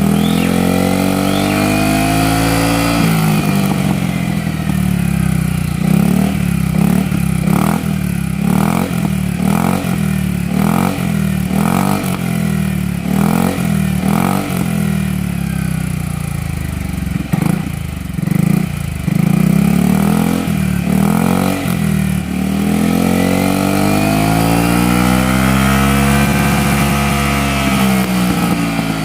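Yamaha XMAX 250 scooter's single-cylinder engine through an aftermarket racing exhaust, revved up and down. About six seconds in it is blipped in a quick run of short throttle bursts, roughly one a second, then after a few more blips it is given long, slow revs that rise and fall near the end.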